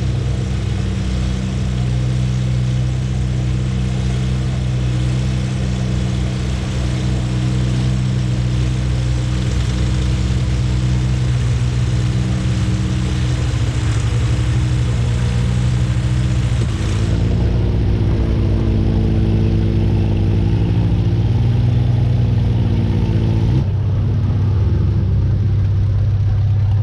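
Antique tractor engine running hard under load, pulling the sled in a tractor pull. Its note holds mostly steady, with sudden shifts in pitch about two-thirds of the way through and again near the end.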